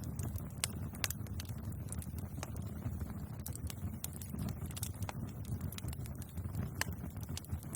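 Wood bonfire crackling, with irregular sharp pops and snaps over a steady low rumble of the flames.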